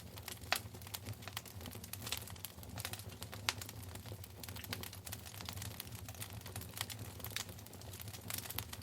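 Wood fire in a fireplace crackling, with many irregular sharp snaps and pops over a steady low rumble of the burning logs.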